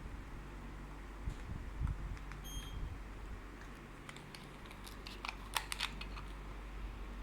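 Acson mini split air conditioner giving a single short high beep over a steady low hum, the beep a split unit gives when it receives a remote-control command. Several light clicks follow a couple of seconds later.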